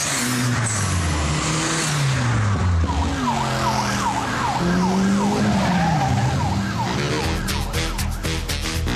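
Cars driving past with their engines revving up and down several times as they go through the gears, and a high warbling squeal over the middle few seconds. Music with a steady beat comes in near the end.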